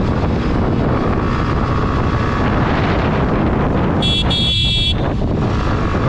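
Yamaha MT-15's 155 cc single-cylinder engine running steadily under way in traffic. About four seconds in, a vehicle horn sounds twice in quick succession, briefly.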